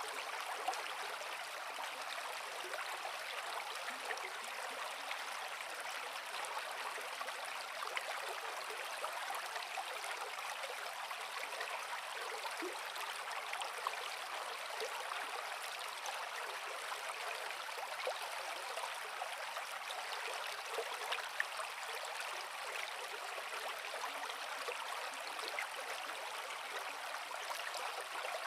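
Creek water flowing over rocks: a steady rush with many small splashes and gurgles.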